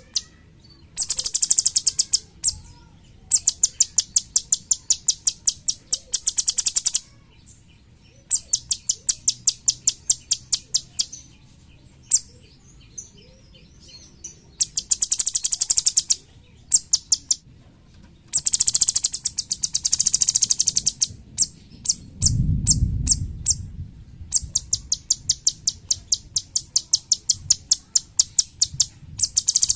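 Cucak cungkok singing its very fast, high-pitched 'tembakan' trills, in bursts of one to two seconds separated by short pauses. A brief low rumble comes about three quarters of the way through.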